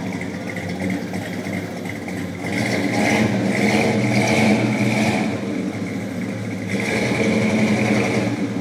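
1969 Chevrolet Chevelle SS 396's big-block V8, running through Flowmaster mufflers, idles and is revved twice: first about two and a half seconds in and held for nearly three seconds, then again near the end. Each time it drops back to idle.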